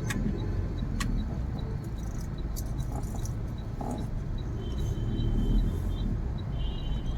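Low, steady rumble of a 2011 Mahindra Scorpio's mHawk four-cylinder turbo-diesel and the road while the vehicle is driven. A faint, fast, regular ticking runs through it, and there is one sharp click about a second in.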